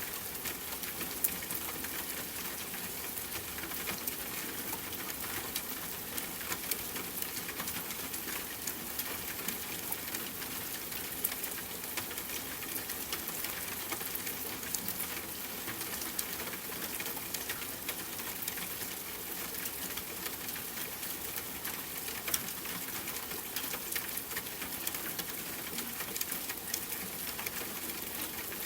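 Steady rain falling, an even hiss with many small sharp ticks and pops scattered through it.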